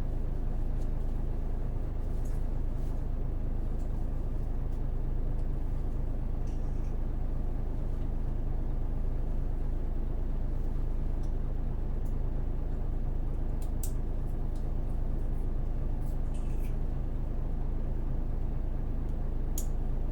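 Hino PJ-KV234L1 city bus with its 6HK1 diesel engine, heard from inside the cabin while under way: a steady engine and road rumble, with a few faint ticks and rattles.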